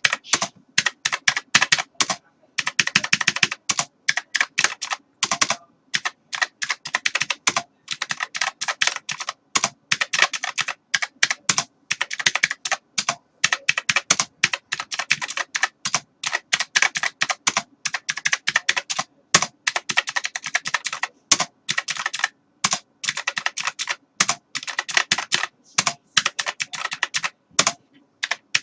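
Typing on a computer keyboard: rapid runs of key clicks in bursts of a second or two, with short pauses between them.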